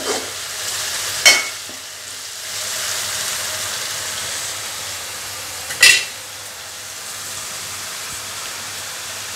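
Mint leaves, onion and green chillies sizzling steadily in oil in a non-stick frying pan, with a spatula stirring and knocking sharply against the pan twice, about a second in and again near six seconds. The mix is frying until the oil separates and rises to the top, the sign that it is well fried.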